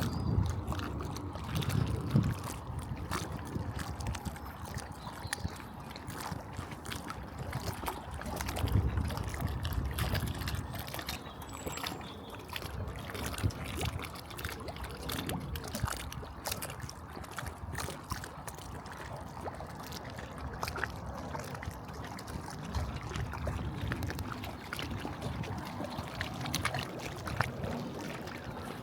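Lakeside outdoor ambience: wind buffeting the microphone in low gusts, loudest near the start and again about eight to ten seconds in, over a steady background with many small scattered clicks and ticks.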